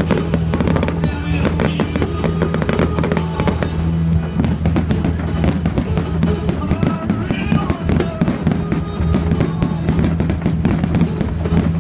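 Aerial fireworks bursting in rapid, dense bangs and crackles, with loud music playing underneath.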